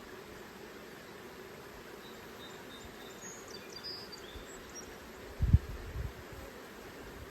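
Honey bees buzzing around an open hive, a steady hum. A few short high chirps come about two to four seconds in, and two low thumps, the loudest sounds, come about five and a half and six seconds in.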